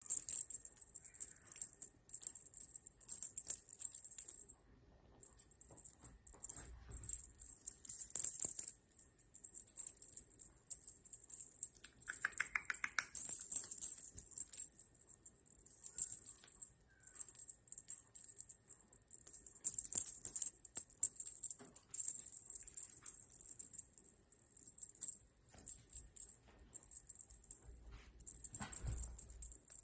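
A small jingle bell rattling in irregular bursts as cats play, with scattered light taps and knocks.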